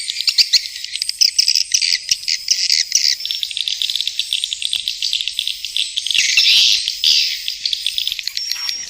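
Swiftlets twittering: a dense, rapid run of high chirps and clicks with nothing in the low pitches, swelling louder about six to seven seconds in.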